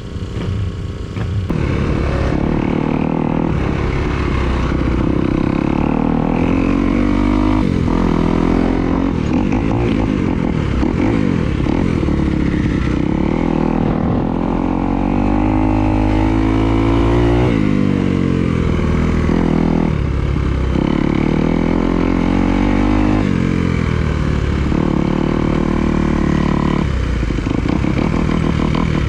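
Dirt bike engine running under load while riding, its pitch climbing and dropping repeatedly as the rider accelerates, shifts and backs off.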